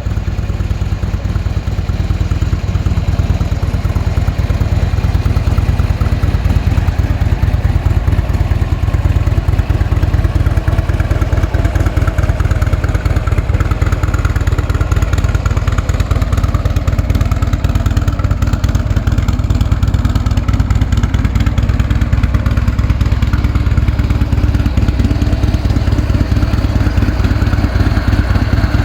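Harley-Davidson motorcycle's V-twin engine idling steadily.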